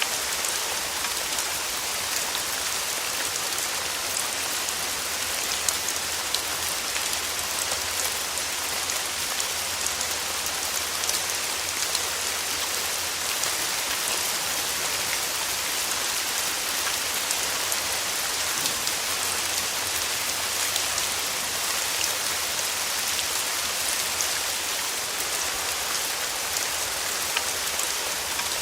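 Steady rain falling and pattering on a surface, a dense even hiss speckled with individual drop ticks.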